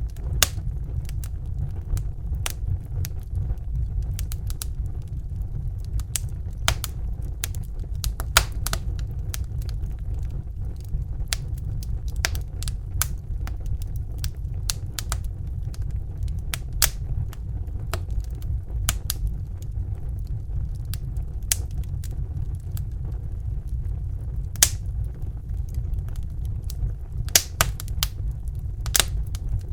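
Crackling fire: irregular sharp pops and snaps scattered over a steady low rumble.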